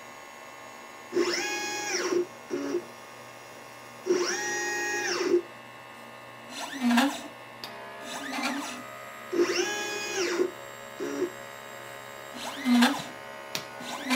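LitePlacer pick-and-place machine's stepper motors driving the placement head from point to point: each move is a whine that rises in pitch, holds and falls away as the head speeds up and slows down, about six moves with short pauses and light knocks between them.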